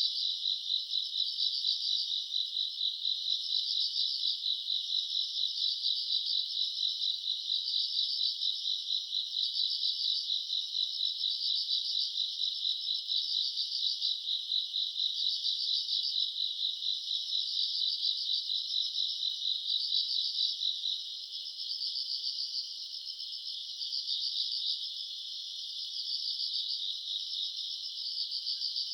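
A dense chorus of grass insects singing at night: many overlapping high-pitched chirps and trills in rapid, even pulses. The chorus thins a little about two-thirds of the way through.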